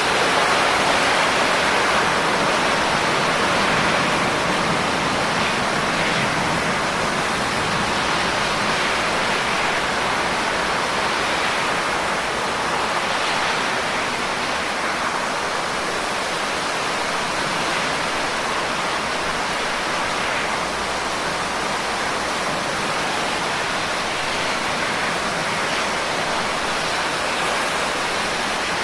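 Steady heavy rain: a dense, even hiss of downpour with no separate drops standing out.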